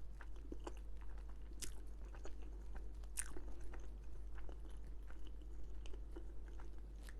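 A person chewing and biting food close to the microphone, with soft irregular mouth clicks and two sharper clicks about a second and a half and three seconds in.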